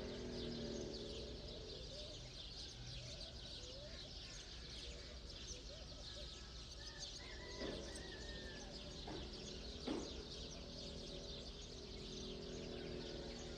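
Many small birds chirping continuously over a low steady background, with one longer bird call in the middle. There are a few brief knocks, the sharpest about ten seconds in.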